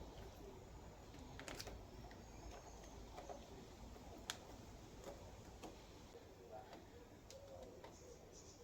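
Faint scattered clicks and rustles of hands pressing and tucking self-adhesive sound-deadening sheet onto a vehicle bulkhead, with one sharper click about four seconds in.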